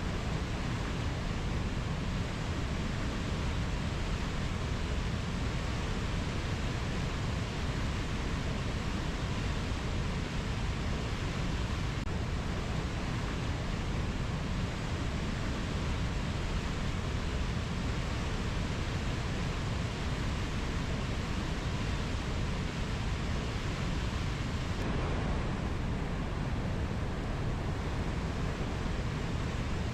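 Steady, even rushing ambience with no distinct calls, tones or knocks, heaviest in the low end.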